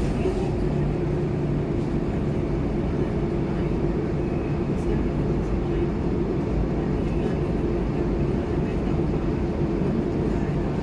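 Scania K230UB city bus's five-cylinder diesel engine running steadily under way, a constant drone with a steady whine and road rumble beneath.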